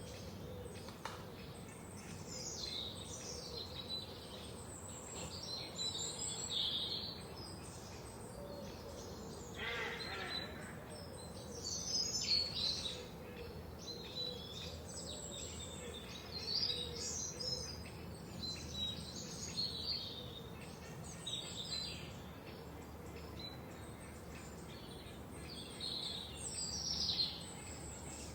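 Several songbirds chirping and trilling in overlapping high calls, with a lower, harsher call about ten seconds in, over a steady low background hiss.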